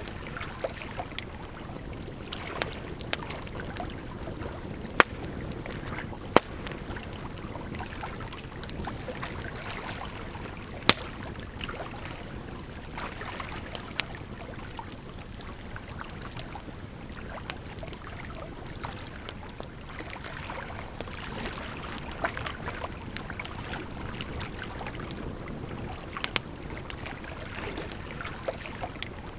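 Wood fire burning, with irregular sharp crackles and pops, over a steady rush of flowing water.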